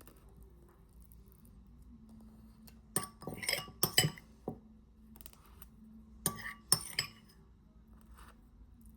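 Glassware and dishes clinking as they are handled, in two short clusters of knocks about three and six and a half seconds in, over a faint steady hum.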